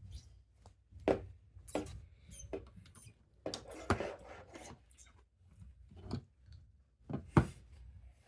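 Plastic Lego pieces being handled: irregular clicks and taps, with a short rustle about three and a half seconds in and the sharpest click near the end.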